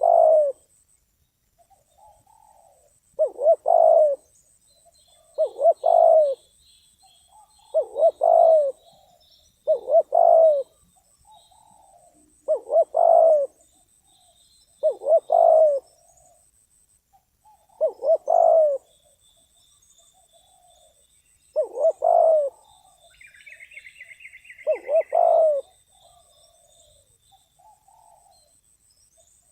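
A trained decoy spotted dove cooing: a short, loud coo phrase repeated about ten times, every two to three seconds. Small birds chirp faintly in the background, with a brief burst of chirps near the end.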